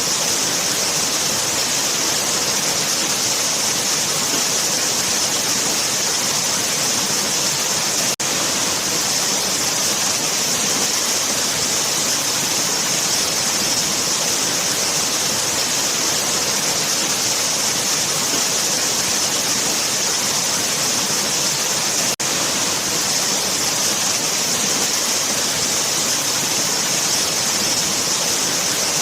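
Waterfall: water falling and rushing in a steady, even hiss, interrupted twice by a split-second dropout about 8 and 22 seconds in.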